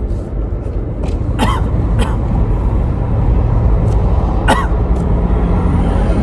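Low, steady engine rumble from a vehicle running alongside the car, heard from inside the cabin, a little louder about a second in. A few short sharp clicks or mouth noises come through over it.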